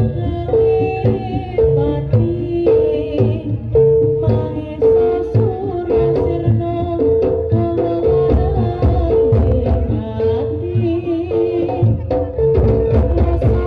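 Live jaranan (kuda lumping) ensemble music: drums with a repeating two-note figure on pitched percussion, played continuously.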